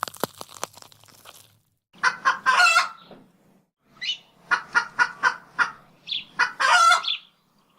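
Hen clucking in two phrases of short clucks, each ending in a longer cackle.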